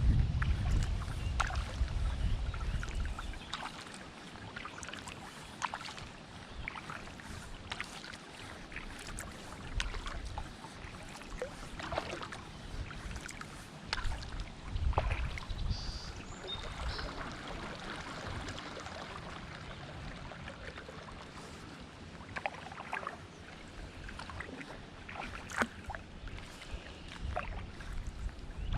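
Kayak paddle dipping into the water, with scattered small splashes and drips. A low rumble of wind on the microphone for the first few seconds.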